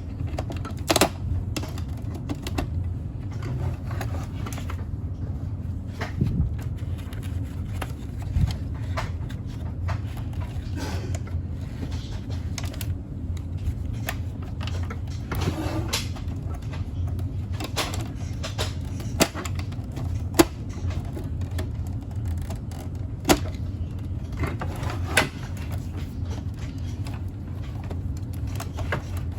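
Scattered sharp clicks and knocks, as of tools and small hard parts being handled during a coffee machine repair, over a steady low hum.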